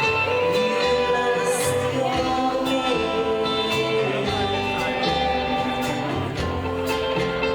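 Live rockabilly band playing, guitar over bass with a steady beat.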